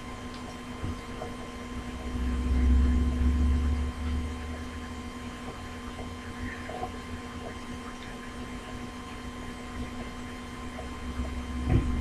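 Steady electrical hum with a few faint clicks, and a low rumble from about two to four seconds in.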